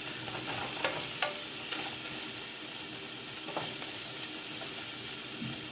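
Chopped smoked andouille sausage sizzling as it fries in the chili pot, with a few short scrapes and clicks from it being stirred.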